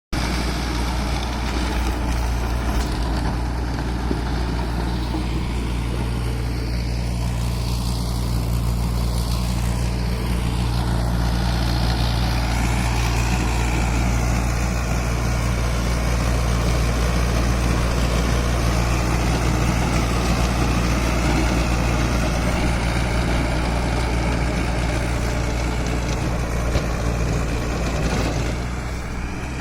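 Mahindra Arjun tractor's diesel engine running steadily while driving a rotavator, with a constant low engine hum and a rough churning noise over it.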